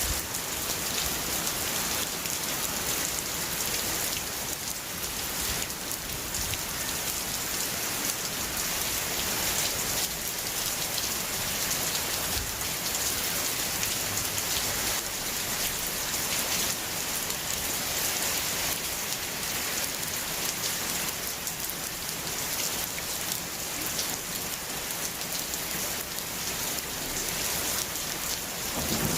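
Steady heavy rain falling and pattering on surfaces: a dense, even hiss that holds at the same level throughout.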